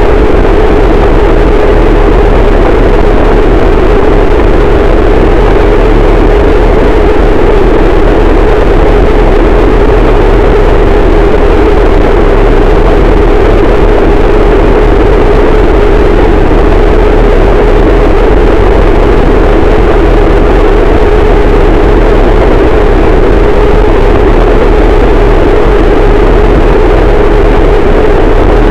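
Harsh noise wall: a dense, unchanging wall of distorted static at full loudness, heaviest in the low and middle range, with no rhythm or breaks.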